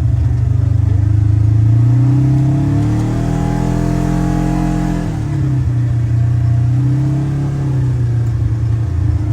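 Polaris General XP 1000 side-by-side's parallel-twin engine running under load, its pitch rising and falling as it speeds up and eases off, with a swooping change in pitch midway, then running steadily.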